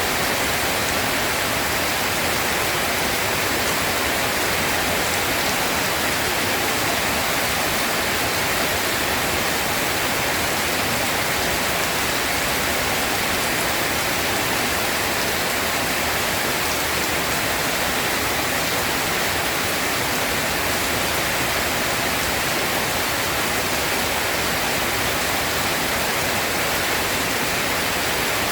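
Steady rain falling, an even hiss with no breaks or claps.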